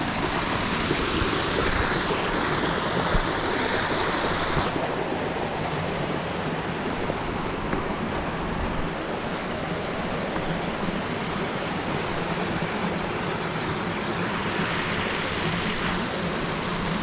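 Steady rush of a mountain stream's flowing water above a waterfall. About five seconds in, the hissing top of the sound drops away abruptly while the lower rush goes on.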